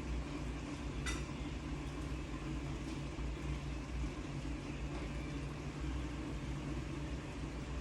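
Steady low mechanical hum with a light click about a second in.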